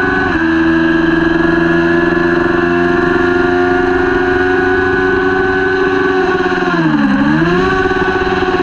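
Kawasaki Ninja 400 parallel-twin racing engine running hard at high revs, a steady high whine; about seven seconds in the revs dip sharply for a moment and climb straight back.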